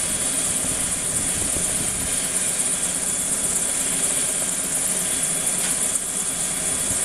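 Helicopter running steadily close by, a continuous rotor and engine noise with a steady high whine on top.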